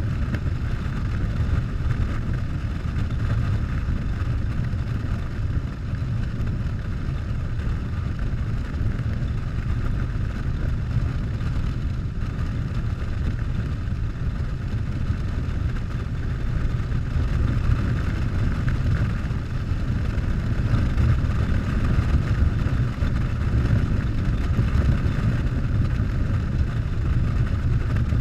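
Harley-Davidson Softail's V-twin engine running steadily while the motorcycle is ridden at an even speed, a little louder in the second half.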